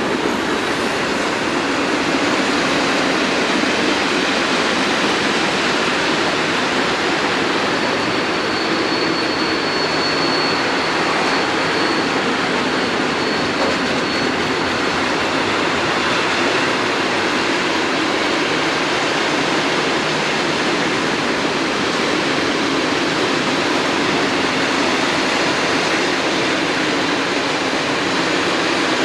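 Freight train of fuel wagons rolling past at steady speed: continuous wheel and rail noise, with a faint high squeal for a few seconds about a third of the way through.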